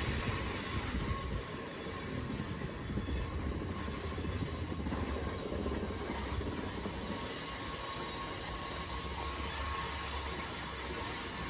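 Rocky Mountaineer passenger train running on the rails: a steady low rumble with a thin, high-pitched squeal held over it.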